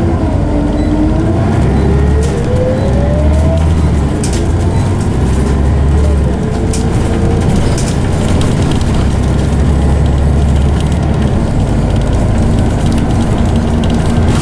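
Loud whine from the ZF automatic gearbox of a Scania CN94UB Omnicity bus over its diesel engine as the bus accelerates: the whine climbs in pitch, drops back at a gear change about four seconds in and climbs again, then holds a steady tone near the end.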